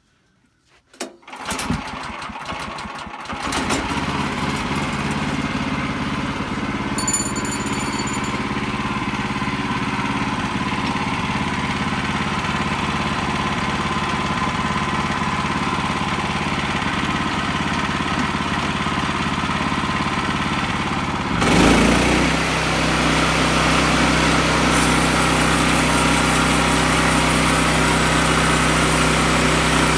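Sawmill engine starting about a second in and running steadily while cedar is milled. About two-thirds of the way through the sound turns louder and deeper and holds there.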